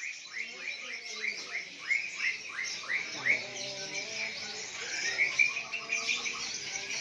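Caged songbirds chirping and calling over one another, with a quick run of short rising chirps, about four a second, in the first three seconds.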